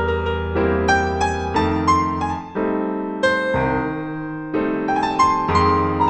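Background music: piano or electric piano playing slow chords, a new chord struck about every half second to second.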